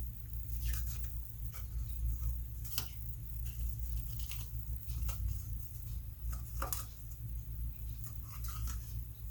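Twine and paper being handled for a journal cover: scattered short crisp clicks and rustles, a few seconds apart, over a steady low hum.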